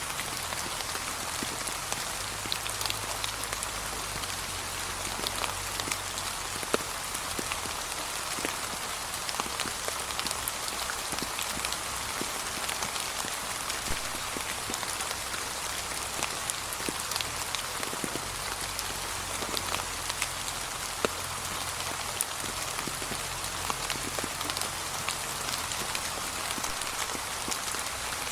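Steady light rain falling on fallen leaves, with many separate drops pattering in a continuous even hiss.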